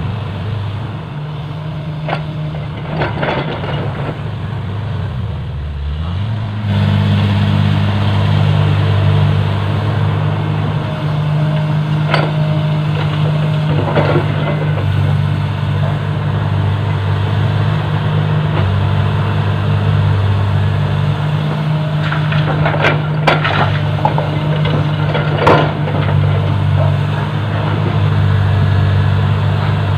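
Heavy diesel engine running steadily, its note rising and getting louder about six and a half seconds in, with scattered knocks and clanks of earthmoving work.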